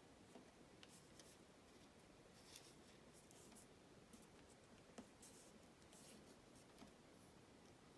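Faint rustling and creasing of origami paper being folded by hand, in short scattered bursts with a few soft taps; the sharpest tap comes about five seconds in.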